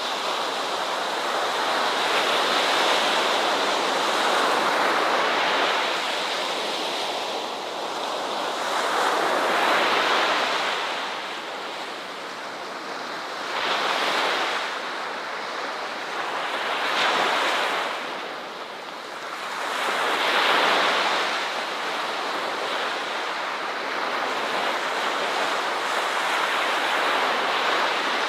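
Ocean waves breaking and washing on a beach, the surf swelling and easing every few seconds.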